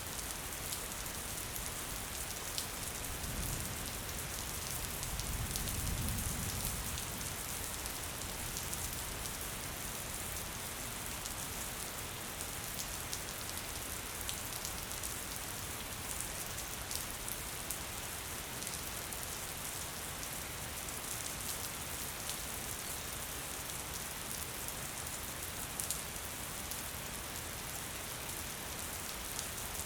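Gentle rain falling steadily, with the light patter of individual drops. A low rumble swells and fades a few seconds in.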